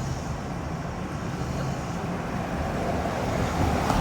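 Steady low rumble with a haze of outdoor noise and no clear single event, growing slightly louder near the end.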